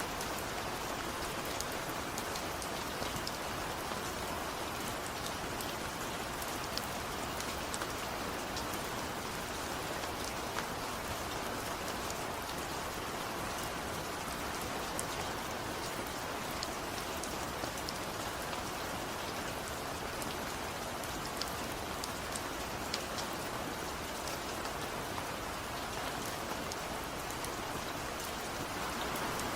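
Steady rain falling, an even hiss with scattered sharp drips of single drops landing on a surface.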